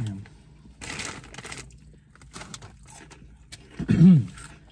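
Crunchy snack fries being chewed, with a snack bag crinkling, in short noisy bursts. Near the end, a loud hummed "mmm" of approval that rises and falls in pitch.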